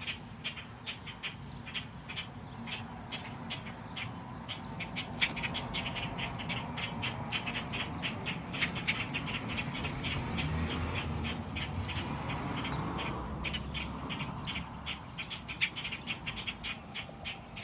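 Parent blackbirds giving harsh alarm calls in a rapid, steady run, several a second, scolding because a person is close to their fledglings.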